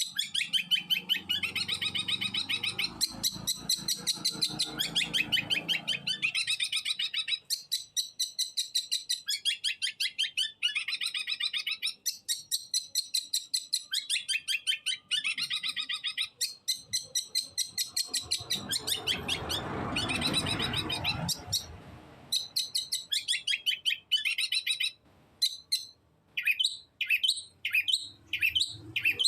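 Long-tailed shrike (cendet) in continuous song, a rapid chattering run of quickly repeated high notes with hardly a break. About two-thirds of the way through, a burst of rushing noise sounds under the song, and near the end the song breaks into separate falling notes.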